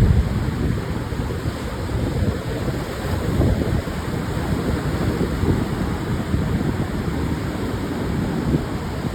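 Pacific surf washing on a sandy beach in a steady rush, with wind buffeting the microphone in low, uneven rumbles.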